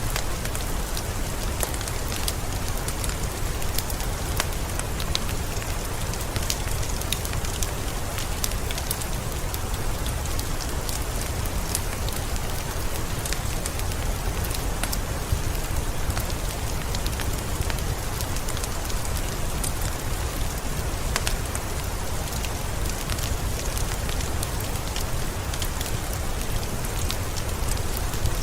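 Heavy rain falling steadily, with many separate drop hits sounding sharply through the continuous hiss of the downpour.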